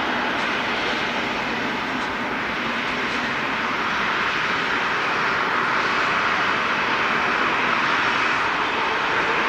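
Airliner engines running with a steady wide roar that slowly grows louder.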